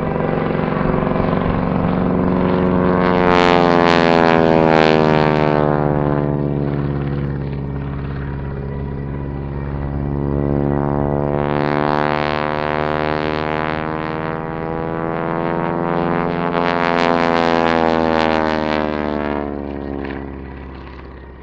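Propeller-driven biplane flying aerobatics, its piston engine and propeller droning and sliding up and down in pitch as it dives, climbs and passes, swelling loud three times and fading near the end.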